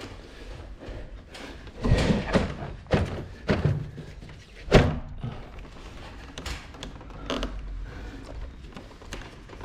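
Irregular knocks and thuds from handling a split air conditioner's indoor unit and its piping against the wall, with the loudest knock about halfway through.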